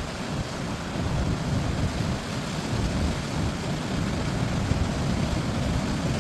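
Wind buffeting the microphone: a steady, gusty low rumble that strengthens about a second in.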